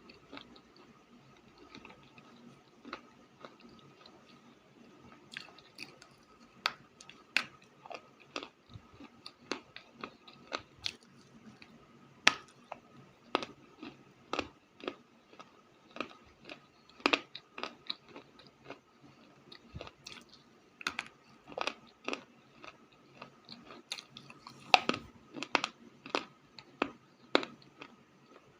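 Crunchy clay being bitten and chewed close to the microphone: sharp, irregular crunches, sparse at first and coming more often from about five seconds in.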